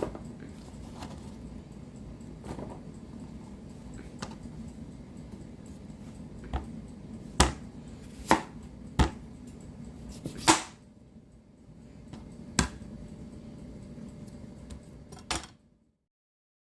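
Knife chopping on a cutting board: about seven sharp, separate knocks spaced a second or so apart, over a steady low hum. The sound cuts off abruptly near the end.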